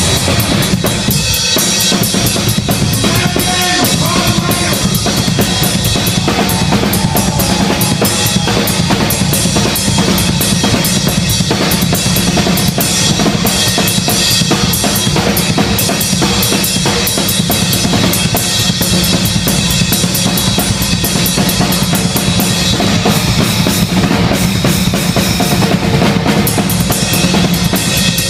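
Rock drum kit solo played live: fast, dense strokes on bass drum, snare and cymbals.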